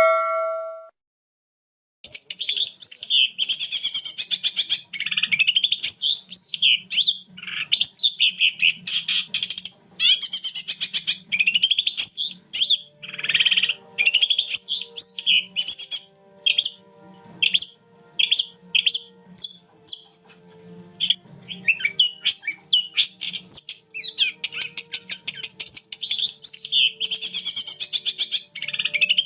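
Long-tailed shrike (cendet) in full song: a fast, varied chattering of high notes in quick runs and short phrases, starting about two seconds in.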